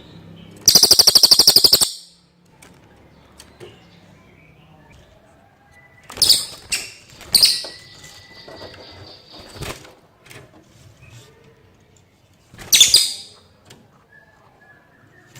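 Cililin songbird singing in loud separate bursts: a fast rattling trill about a second in, then sharp high chirps and a held high whistle a few seconds later, and another short burst near the end.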